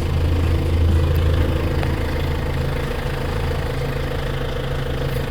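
Tractor engine running steadily with a low, even hum, a little louder in the first second or so.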